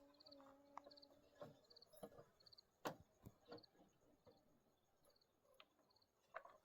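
Very faint cricket chirping, a short pulsed chirp repeated about every half second, with a few faint scattered knocks.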